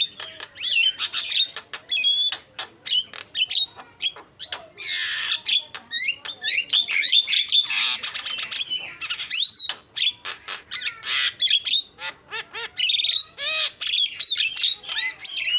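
Javan myna (jalak kebo) chattering without pause: a rapid jumble of short whistled glides, clicks and harsh rasping squawks.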